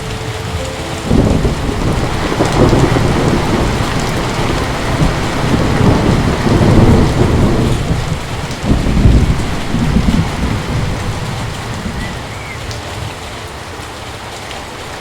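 Heavy rain pouring steadily, with thunder rumbling in low, rolling swells from about a second in that ease off near the end.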